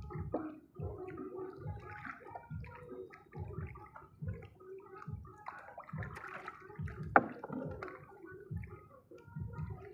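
Water sloshing and gurgling in a regular rhythm, about two surges a second, with a sharp knock about seven seconds in.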